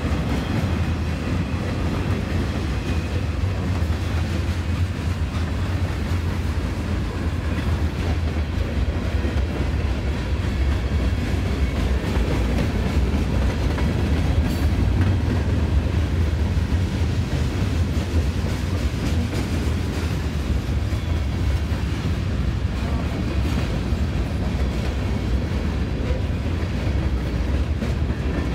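Norfolk Southern mixed freight train's gondolas and covered hoppers rolling past fast: a steady, loud, low rolling noise of steel wheels on the rails that holds level throughout.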